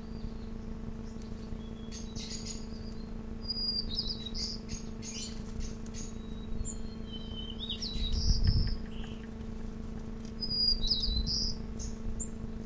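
Several small birds chirping and calling in short, high notes and quick trills, over a steady low hum. A brief low rumble comes about eight seconds in.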